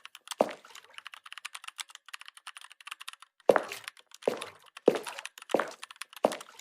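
A series of sharp knocks, spaced about 0.7 s apart, with a patter of small dry clicks between them. The clicks are dense during the first three seconds, before the run of knocks resumes.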